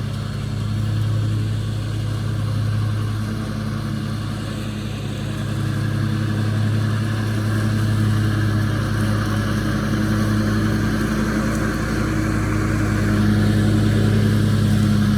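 An engine running steadily at an even pitch, growing a little louder in the second half.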